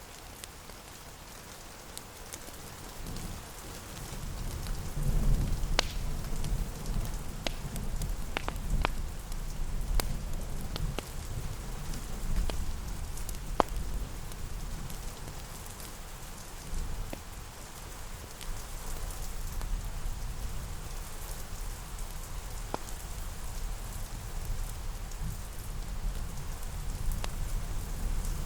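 Steady rain, with scattered sharp crackles and pops like a wood fire. A low rumble swells in about four seconds in and carries on underneath.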